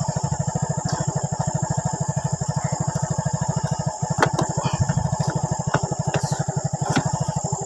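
Motorcycle engine idling with an even putter of about ten beats a second.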